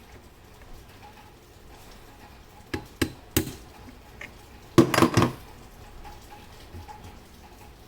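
Three sharp metallic clicks, then a short clatter about five seconds in: small metal objects being handled and set down on a hard surface.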